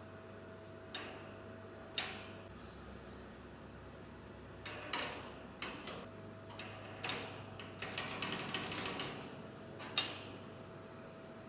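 Small steel parts clicking and clinking as a door latch is made and fitted: a few sharp taps, a quick run of clicks around the middle, and one louder click near the end.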